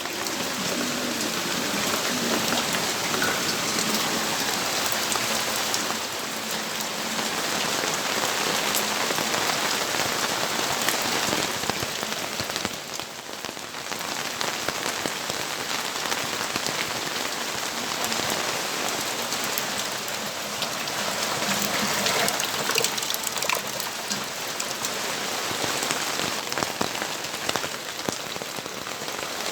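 Steady rainfall with individual drops pattering on nearby surfaces, easing slightly for a moment about halfway through.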